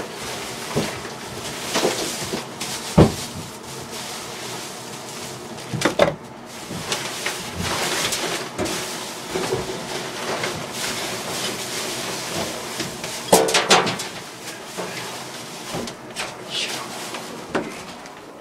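Scattered knocks and clunks of work around the burst plumbing, with a strong knock about three seconds in and a quick cluster of them past the middle, over a steady rushing hiss.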